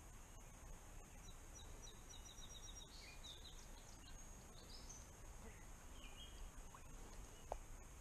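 Faint songbird singing: a quick run of high repeated notes, then a few scattered chirps, over a quiet background hiss. A single soft tick near the end.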